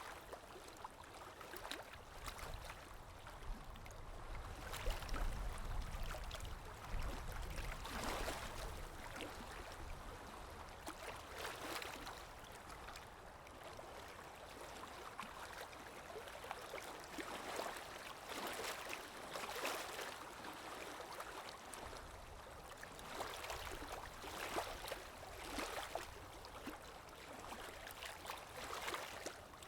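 Water lapping in small irregular washes, with a low rush of wind that swells for a few seconds.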